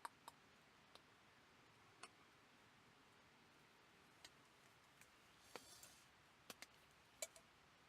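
Near silence with a dozen or so faint, scattered clicks and ticks, and a brief soft rustle about five and a half seconds in.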